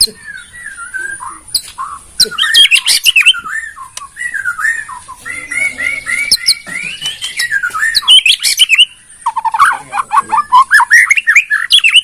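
White-rumped shama (murai batu) singing a loud, varied song of quick whistled phrases, with a run of evenly repeated notes in the middle. This is the dawn song kept to stir the fighting spirit of other shamas.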